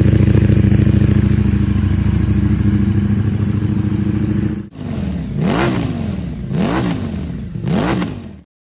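Ducati Panigale V4S's V4 engine through an Akrapovič exhaust, idling steadily. After a sudden break about four and a half seconds in, it gives three quick throttle blips about a second apart, each rev rising and falling in pitch, before the sound stops.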